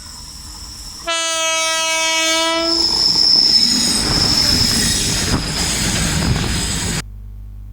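Train horn sounding one long steady note about a second in, followed by a passing train's rumble and clatter with a high steady wheel squeal, which stops abruptly near the end.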